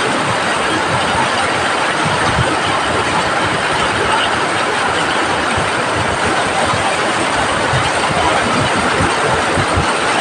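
Heavy rain pouring down, a loud, steady, dense hiss with no let-up.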